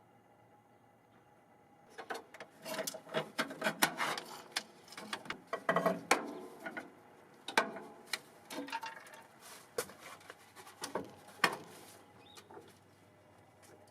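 Irregular clicks, knocks and rubbing from hands and tools handling parts during an under-hood inspection. It starts about two seconds in and dies away near the end.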